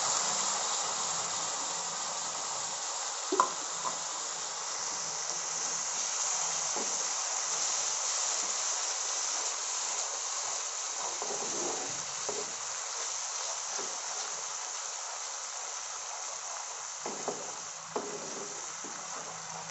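Onion-tomato gravy paste sizzling in hot spiced oil in a frying pan as it is stirred with a spatula, the sizzle easing slowly. One sharp knock of the spatula on the pan about three seconds in, and a few lighter knocks near the end.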